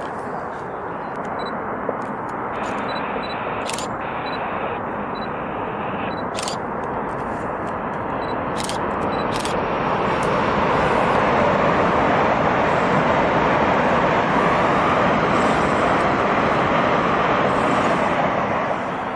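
High-speed electric train passing: a steady rushing of wheels and air that swells about halfway through, holds loud, and falls away near the end. Several sharp camera-shutter clicks in the first half.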